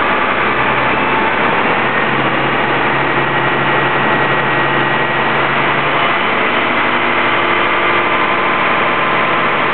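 Fire engine's engine running loud and steady with the throttle raised, driving its fire pump in high-pressure mode, its tone shifting slightly a couple of times.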